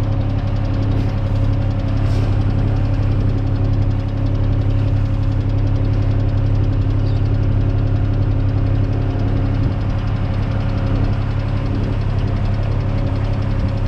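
Tractor engine running steadily at an unchanging speed, heard close up.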